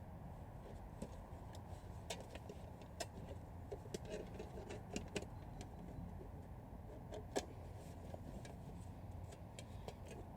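Scattered light clicks and knocks of camp gear being handled and set up, over a faint steady low rumble like distant traffic.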